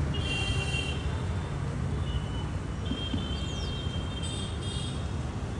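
Steady low rumble of road traffic, with several brief high-pitched tones sounding over it and one short falling whistle-like note.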